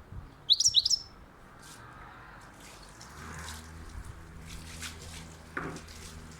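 European goldfinch calling: a loud quick run of about three high rising chirps about half a second in, then fainter scattered chirps. A low steady hum comes in about halfway through.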